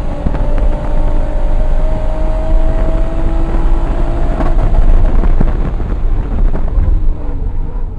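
The single-turbo Toyota Supra's turbocharged inline-six is pulling hard, its note climbing steadily for about four seconds before it breaks off around halfway through, over heavy road and wind noise in the cabin.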